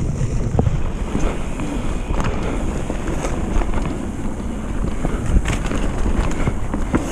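Mountain bike rolling down a dirt trail: wind buffeting the microphone over a steady tyre rumble, with frequent sharp clicks and rattles from the bike.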